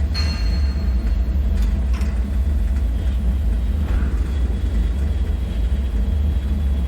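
Bunker ambience: a deep, steady low rumble throughout, with a metallic clink that rings out for about a second at the start and a few faint knocks after it.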